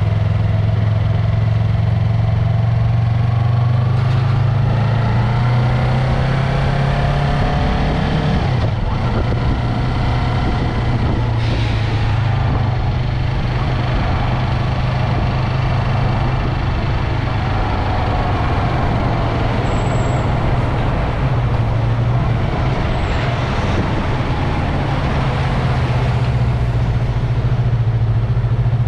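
Yamaha MT-03 motorcycle on the move with its engine running steadily, under wind and road noise. Other traffic's engines rise and fall in pitch around it, most clearly in the first several seconds and again a little past the middle.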